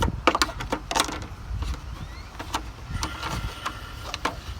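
A string of sharp knocks and clicks over a steady low rumble from a lawn mower running nearby.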